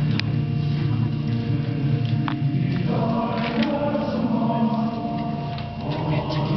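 Choir singing a hymn in held chords, moving to new notes about three seconds in.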